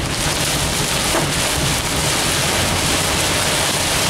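Heavy rain drumming on a car, heard from inside the cabin: a loud, steady, dense hiss with no letup.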